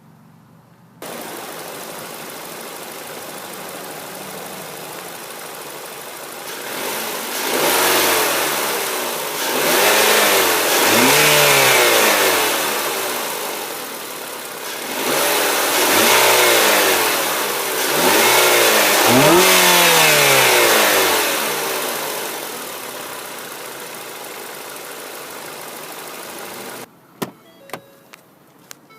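2015 Ford Fusion SE engine idling steadily, then revved four times, each rev rising and falling back to idle.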